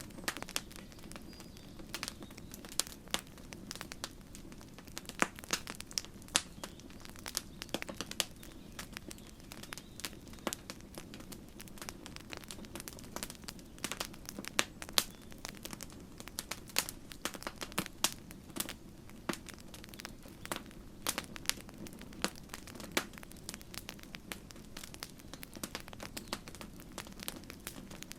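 Wood campfire crackling: irregular sharp pops and snaps, several a second, over a steady low hiss of the burning fire.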